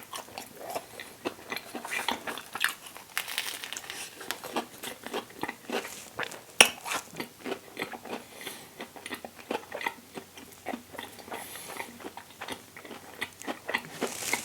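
Close-up chewing and biting of a vegan sausage-and-cheese McMuffin on a toasted English muffin: a run of crisp crunches and wet mouth clicks, with one sharper crunch about six and a half seconds in.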